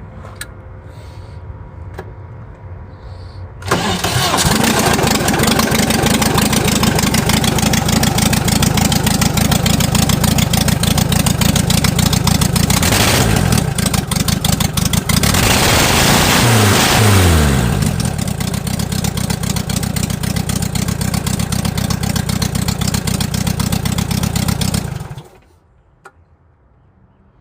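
A dune buggy's VW Vanagon flat-four engine starts suddenly about four seconds in and runs loudly. It is revved up and down a couple of times in the middle, then shut off a couple of seconds before the end.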